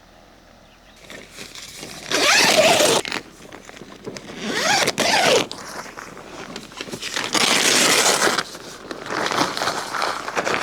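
Tent zipper being pulled open in several strokes, three loud long pulls about two seconds apart followed by lighter ones near the end.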